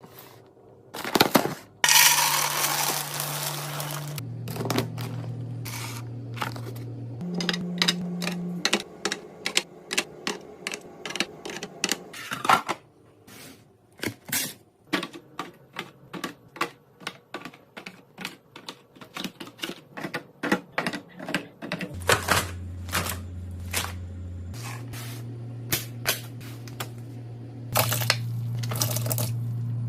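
Quick clicks, taps and knocks of containers, lids and packaged items being handled and set in place, with a rustling stretch about two seconds in. Low held notes that step in pitch every few seconds sit beneath them.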